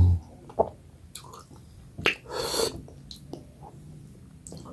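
Mouth sounds of eating soft millet dhido with chicken curry: chewing and lip smacks, heard as scattered wet clicks.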